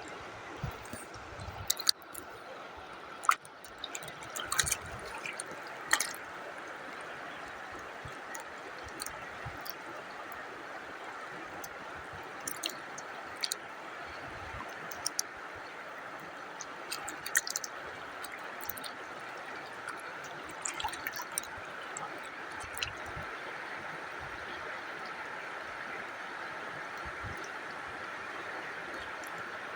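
Running water with a steady rushing sound and scattered drips and small splashes, more of them in the first few seconds.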